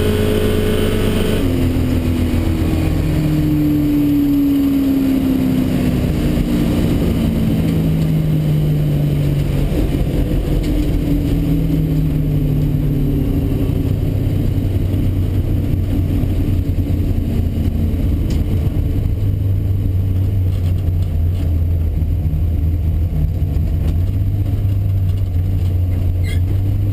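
A 1971 Chevrolet Nova drag car's engine, heard loud from inside the cabin. For the first dozen seconds its pitch falls steadily as the car slows down, then it runs on at low speed with a steady low rumble.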